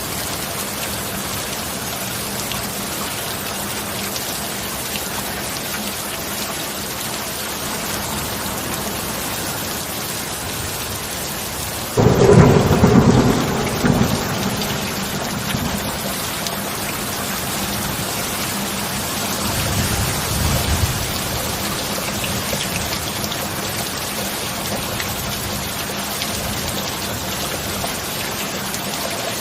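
Steady heavy rain with a sudden close thunderclap about halfway through that rumbles on for a few seconds, then a softer second roll of thunder a few seconds later.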